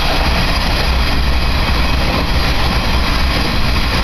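Steady running noise heard inside a diesel railcar's cabin while it travels, with a strong, constant deep rumble under an even rushing noise.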